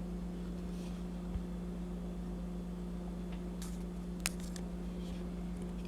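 A steady low electrical hum, like a fan or appliance running, with a few faint light clicks and taps of small objects being handled.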